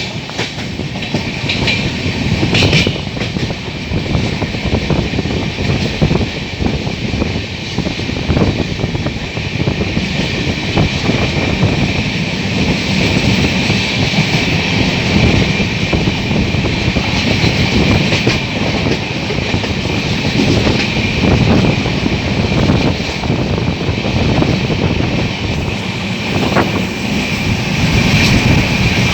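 Train running along the track: a steady rumble with scattered clicks from the wheels.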